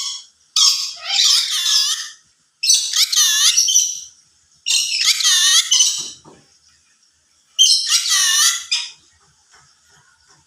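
Yellow-sided conure (a colour form of the green-cheeked conure) giving four loud, high-pitched calls, each a little over a second long, with short pauses between them.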